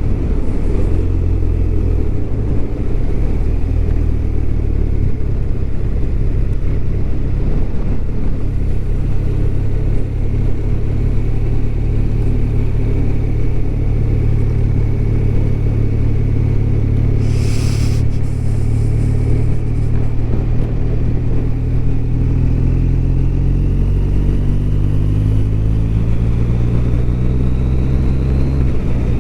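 BMW R1200RT's flat-twin engine running on the road at a steady cruise, with road and wind noise, its pitch rising gradually over the last several seconds as the bike accelerates.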